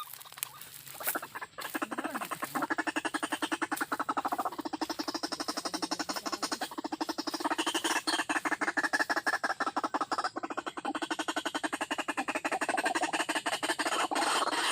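White-breasted waterhen calling: a long run of rapid, evenly pulsed notes.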